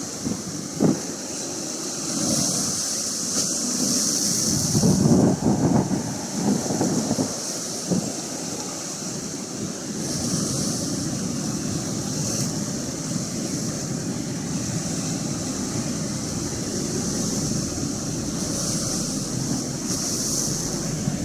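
Atlantic Ocean waves washing and breaking against the shore in a continuous roar that swells and falls, loudest about five seconds in, with wind buffeting the microphone.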